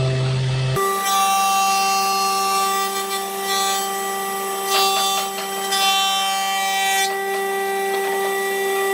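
An electric woodworking power tool runs at a steady high whine, with rasping patches as it bites into the wood several times.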